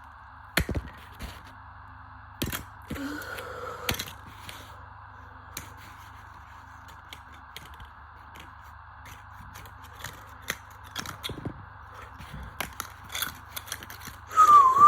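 Tumble dryer being spun fast by a fitted washing machine motor: a steady running noise with irregular clicks and knocks of loose parts rattling inside, and a louder short burst near the end.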